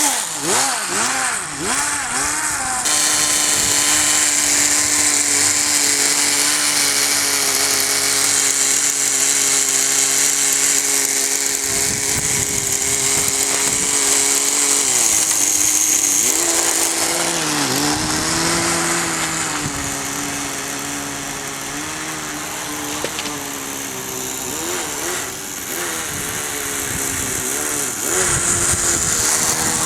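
Small two-stroke nitro glow engine of a Kyosho Nitro Blizzard RC snow crawler running. Its pitch holds steady for long stretches, then dips and picks back up with throttle changes about halfway through and again a few seconds later.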